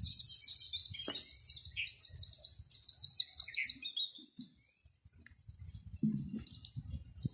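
A bird chirping in a rapid, even series of high notes, which stops about four seconds in. A low rumbling noise follows near the end.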